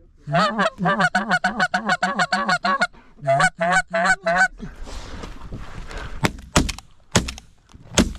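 A fast run of short, regular Canada goose honks and clucks, about seven a second, in two strings, as of a goose call worked hard or geese close overhead. Then, after a moment of rustling, four sharp shotgun blasts.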